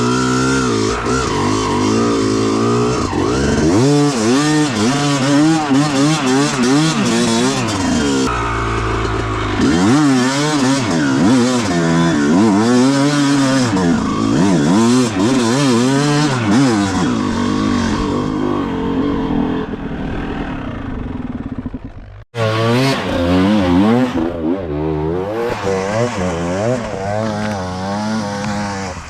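Motocross dirt bike engine revving up and down as it is ridden, the throttle opening and closing about once a second. The sound breaks off for a moment about 22 seconds in, then picks up again.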